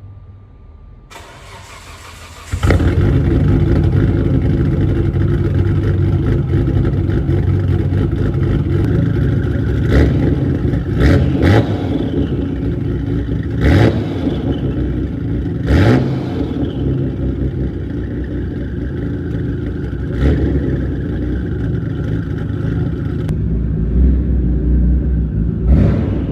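Nissan Skyline R32 GT-R's twin-turbo RB26DETT straight-six, through a Tomei Expreme Ti titanium exhaust, catching on a cold start about two and a half seconds in and settling into a loud, steady cold-start idle. A handful of short, sharp blips or pops break the idle.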